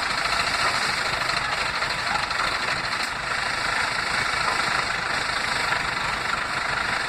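Heavy diesel engine running steadily, an even mechanical noise with no marked changes.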